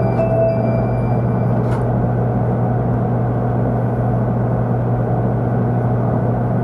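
Steady running noise inside a 500 Series Shinkansen car at speed: an even rumble with a constant low hum. The last tones of a chime end about half a second in.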